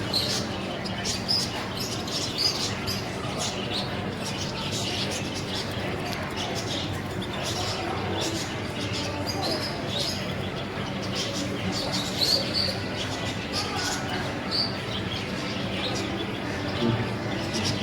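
Gloster canaries chirping, with short high chirps coming irregularly throughout, over a steady low hum.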